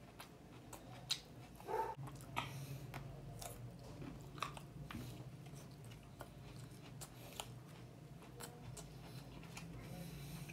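A man chewing and biting food close to the microphone. Many small crisp clicks and crunches are scattered through it as he picks at leftover morsels.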